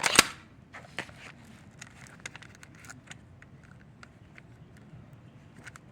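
A single sharp knock on a door just after the start, then faint scattered clicks and rustles while waiting for an answer.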